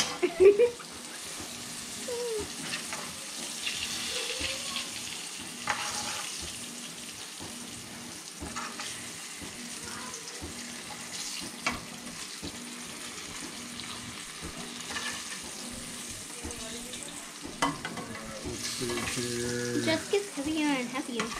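Bite-sized duck nuggets sizzling as they pan-fry in a skillet, a steady hiss, with a few sharp clicks of metal tongs as pieces are turned and lifted out of the pan.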